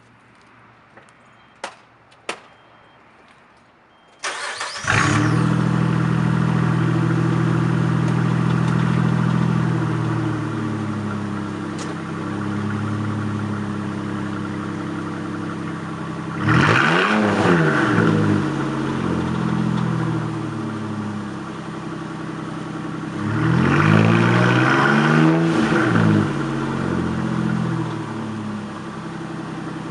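2003 Nissan Xterra's 3.3-litre V6 through a Cherry Bomb Extreme muffler and dual exhaust: after a few clicks it cranks and catches on a cold start about four seconds in, then idles, settling slowly lower. It is revved in neutral twice, once briefly and then in a longer run of several blips.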